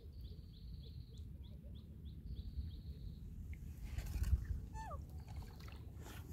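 A bird calling in a rapid series of high notes, about three a second, through the first half, over a low steady rumble. About four seconds in there is a knock and rustle, followed by a short falling squeak.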